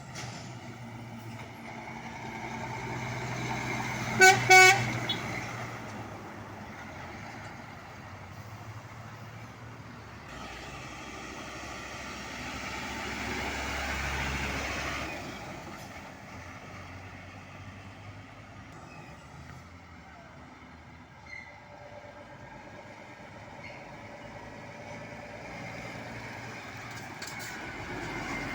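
Two short, loud blasts of a Scania truck's marine-style air horn about four seconds in, over the noise of passing traffic. A vehicle swells past and fades around the middle.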